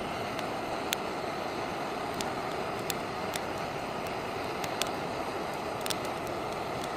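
Dry boxed firewood burning in a campfire: a steady rush of flame with sharp crackles and pops at irregular intervals, about one to two a second.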